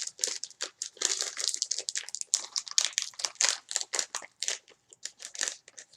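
Plastic snack pouch crinkling and crackling as it is handled and opened, a dense run of sharp crackles that thin out near the end.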